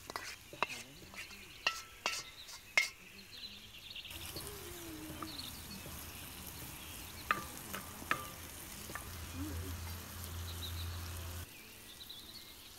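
Spicy chicken sizzling in a cast iron wok, with a wooden spatula knocking and scraping against the pan: four sharp knocks in the first few seconds and two more later on.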